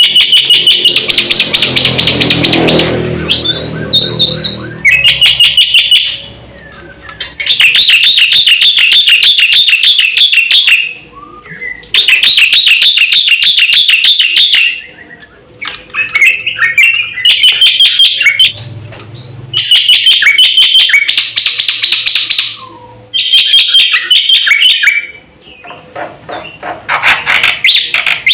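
Black-winged myna (jalak putih) singing loudly in bouts of fast, rapidly repeated high notes, each bout lasting two to three seconds with short pauses between.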